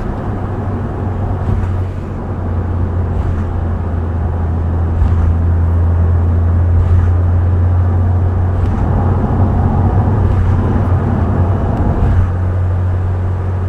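Subaru Impreza WRX STI Spec C's turbocharged flat-four engine and aftermarket A-RM exhaust cruising at a steady low drone, with tyre and road noise.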